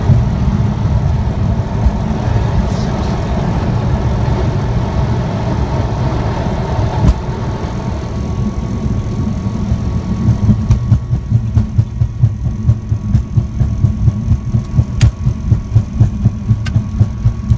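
Aircraft engine running, heard inside the cockpit after landing: a loud, steady low rumble. About ten seconds in it settles into an even throbbing pulse, roughly two or three beats a second.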